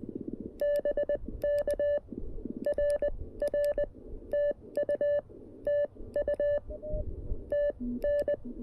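Morse code from a CFT-1 QRP transceiver: a single steady beep keyed on and off in quick dots and dashes, over faint receiver hiss. A fainter, lower-pitched Morse tone comes in briefly near the end.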